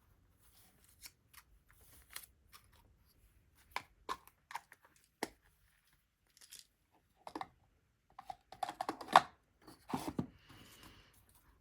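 Paper craft pieces being handled on a tabletop: scattered light taps, clicks and paper rustles, busier toward the end.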